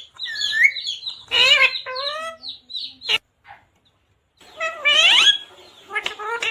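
Pet parrot calling in a series of short squawks and chatter that swoop up and down in pitch, with a sharp click about three seconds in and a pause of about a second before more calls.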